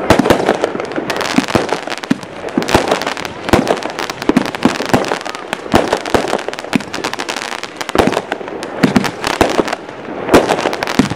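Aerial fireworks going off: a dense, unbroken run of bangs and crackles, several reports a second, as shells burst in quick succession.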